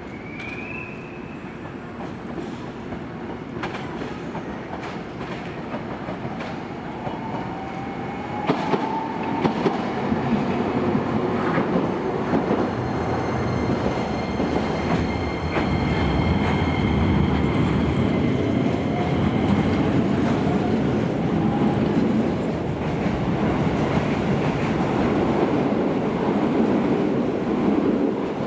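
Keisei Main Line electric train running, with its motors whining in gliding tones and its wheels clacking over rail joints. The rumble grows louder over the first ten seconds, then holds steady.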